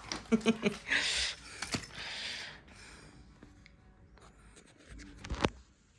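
Rustling and scuffling of play with a cat, with a hissy rustle about a second in and a couple of sharp knocks, the last one near the end.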